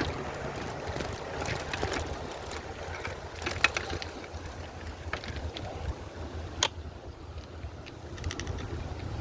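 Wind rumbling on the microphone while a folding e-bike is ridden along a canal towpath, with scattered clicks and knocks. The sharpest come about three and a half and six and a half seconds in.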